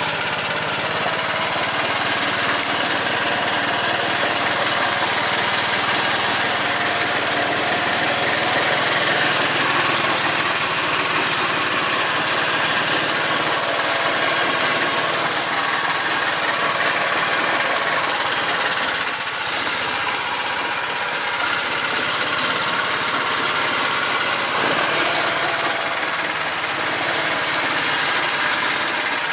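Engine of a homemade karakat all-terrain vehicle running steadily as it crawls along, its pitch drifting up and down a little.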